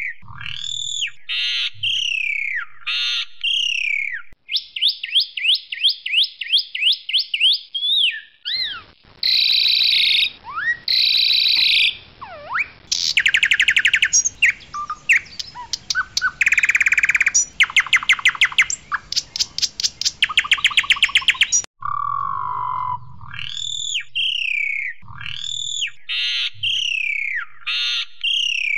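Asian pied starling (jalak suren, white variety) singing a loud, varied song. It opens with downward-sliding whistled notes and a run of fast repeated notes, moves into harsh, buzzy rattling chatter through the middle, and returns to the sliding whistles near the end.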